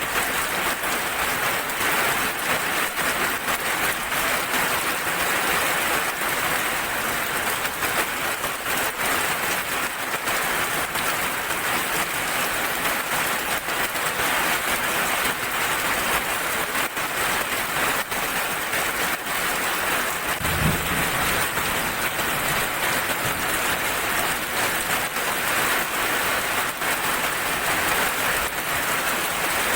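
Steady rain falling on a surface, a dense, even patter of drops. About two-thirds of the way through there is a single brief low thump.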